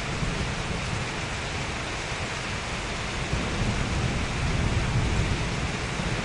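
Steady, soft summer rain falling as an even hiss, with a low rumble that swells about halfway through and stays louder near the end.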